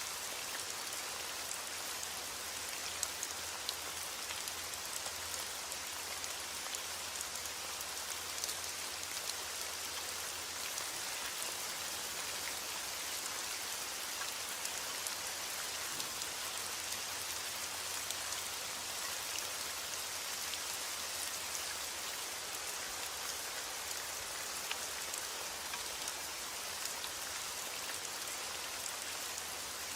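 Steady heavy rain, an even hiss with scattered drop ticks and no change in strength.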